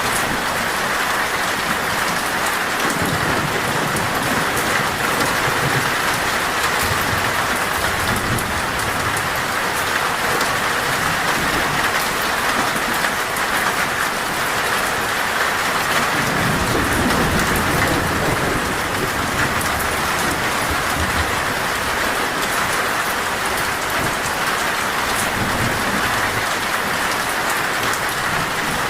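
Heavy, torrential rain drumming steadily on a metal roof, with low rolls of thunder rumbling underneath several times.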